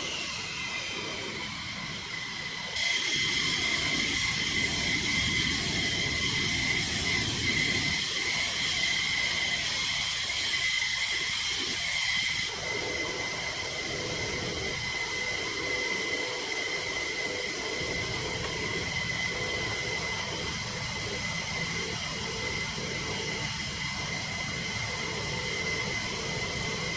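Fighter jet engines running with a steady high whine over a rushing hiss. The mix changes abruptly several times, as between edited clips, and gets louder about three seconds in.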